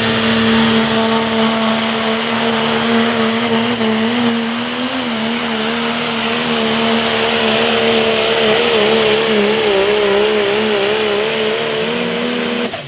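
Pro stock turbo-diesel pickup truck pulling a sled at full throttle: the engine is held at one high, steady pitch, which wavers in places as engine speed rises and falls slightly under load.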